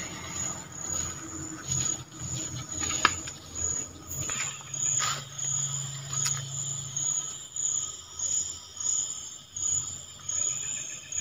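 Night insects calling: a high, steady trill that pulses in an even rhythm about every two-thirds of a second, with a few sharp clicks in between.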